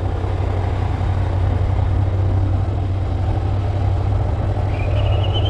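Motorcycle engine running steadily, with wind rush over the microphone while riding. A high wavering whistle starts near the end.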